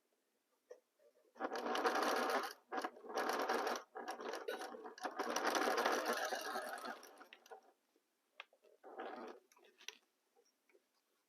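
Sewing machine stitching a seam in several runs of one to three seconds, stopping briefly between them, with a last short run near the end.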